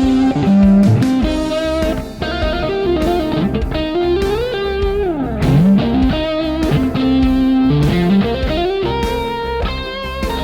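Fender Deluxe Stratocaster electric guitar with N3 Noiseless stacked-humbucker pickups playing bluesy lead lines, with string bends and a long slide down in pitch about five seconds in, over a backing with a steady beat.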